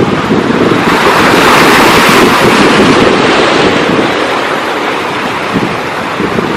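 Sea surf: a wave breaking and washing in, its hiss swelling about a second in and fading by about four seconds. Wind buffets the microphone throughout with a low fluttering rumble.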